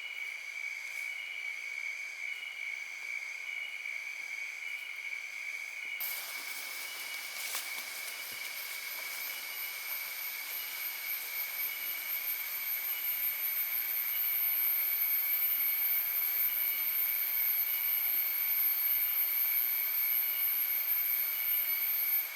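Forest insects trilling steadily at one high pitch, with a faint regular pulse. About six seconds in, a second, much higher-pitched insect whine joins and holds steady.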